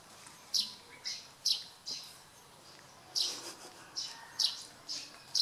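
Small birds chirping: short high notes repeating about twice a second in an irregular run.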